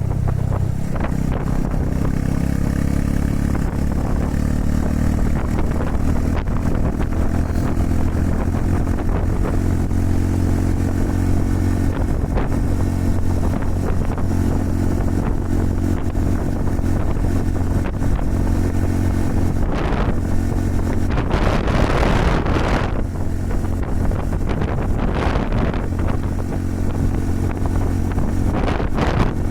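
Honda Super Cub 110's small single-cylinder four-stroke engine running at a steady cruise while riding. Several gusts of wind buffet the microphone in the last third.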